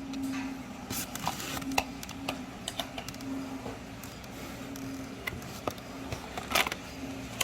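Scattered light clicks and rustles of packaging and containers being handled, over a steady low hum.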